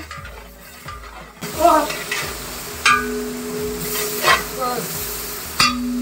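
Food sizzling in hot oil in a cooking pot. The sizzle starts suddenly about a second and a half in, and three sharp knocks of a utensil against the pot come at roughly even intervals.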